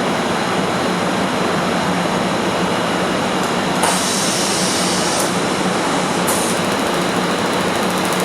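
Steady machine noise from a 600 W fiber laser welding system and its cooling unit, as it welds a stainless steel tube. A sharper high hiss comes in about four seconds in for about a second, and again more faintly from about six seconds in.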